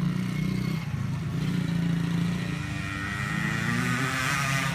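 Children's dirt bike engines running on a track, with one engine's pitch climbing near the end as it revs up.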